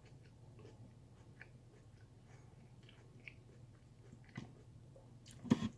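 Close-up chewing of a mouthful of raw sweet potato: faint, irregular crunches several times a second, with a sharper click a little after four seconds and one short, louder crunch near the end.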